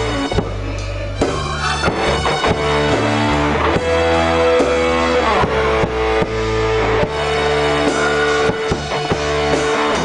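Instrumental band music without singing: drum kit keeping a steady beat under held guitar or keyboard notes and a bass line.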